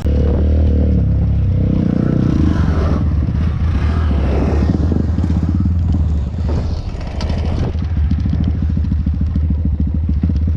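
Honda Grom 125cc single-cylinder motorcycle engine running while riding, with a rapid, even firing pulse that becomes clearer about two-thirds of the way in, and some clatter.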